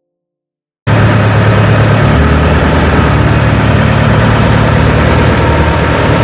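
Longtail boat engine running loud and steady, starting abruptly about a second in after silence.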